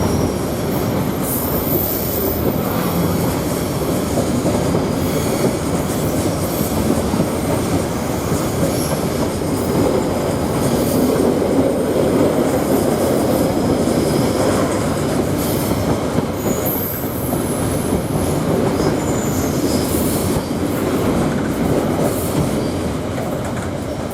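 Freight train wagons rolling past at close range with a steady rumble and wheel clatter, and brief high-pitched wheel squeals now and then. The sound eases off near the end as the train clears.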